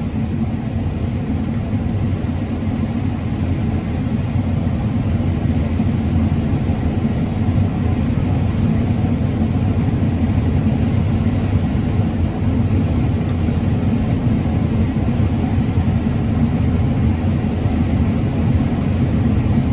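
Combine harvester running steadily while cutting corn: a constant low drone of engine and machinery.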